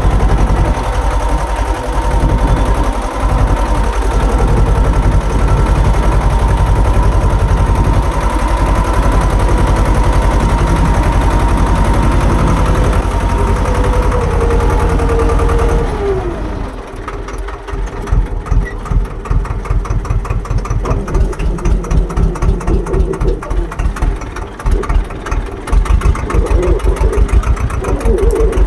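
Swaraj tractor's diesel engine running at high revs. About halfway through the revs drop with a falling tone, and it settles to an idle where each firing beat is heard separately.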